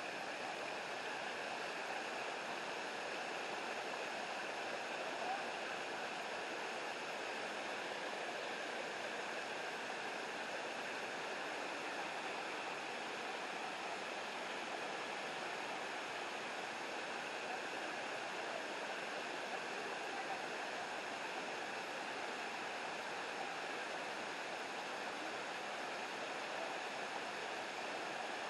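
Steady rush of river water and a waterfall, an even hiss of flowing and falling water.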